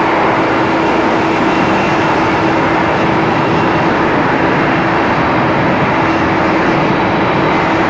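Boeing 777 airliner in flight on its landing approach: steady jet engine and airflow noise, with a constant low hum and a higher whine running through it.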